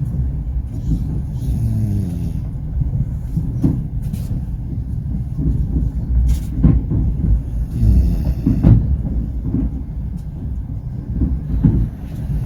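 Passenger train coach rolling on the rails: a steady low rumble broken by irregular knocks of the wheels.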